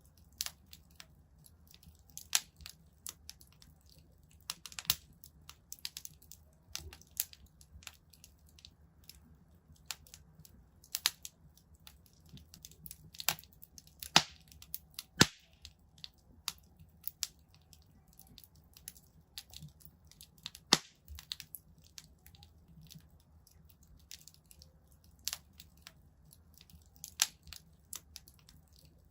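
Wood fire in a fireplace crackling, with irregular sharp pops and snaps over a faint low hum; a few louder snaps stand out around the middle.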